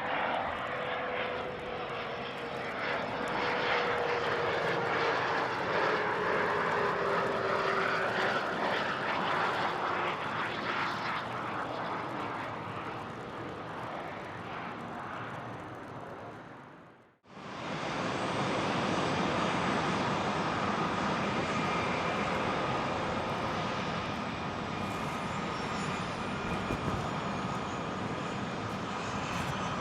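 Business jets landing: engine noise with a whine that falls slowly in pitch as the first jet passes. About two-thirds of the way in the sound drops out briefly, and a second jet follows with a steady high whine.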